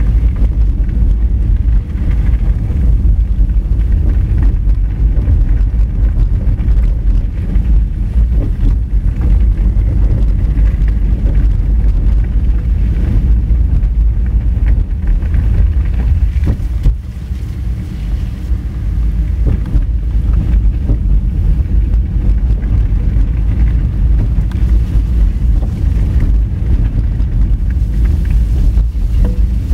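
A Honda Fit driving on a rough gravel forest road: a loud, steady low rumble of tyres on loose stones and the running car. The rumble eases briefly about halfway through, just after a single knock.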